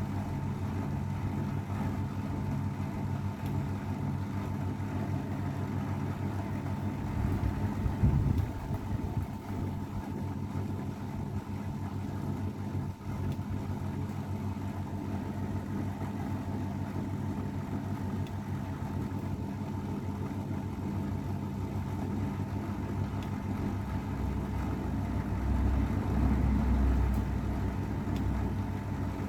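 AEG Öko-Lavamat 693 washing machine running: a steady motor hum with a thin high whine, swelling louder briefly about eight seconds in and again near the end.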